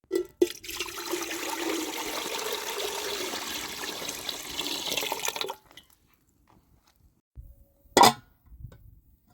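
Water pouring in a steady stream for about five seconds, then stopping abruptly, with a single sharp knock about eight seconds in.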